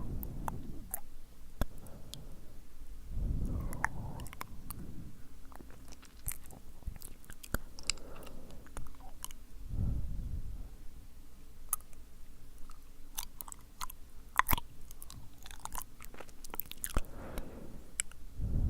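Wet, sticky mouth sounds close to the microphone: scattered tongue and lip clicks and smacks, with soft breaths blown into the mic three times, a few seconds in, midway and near the end.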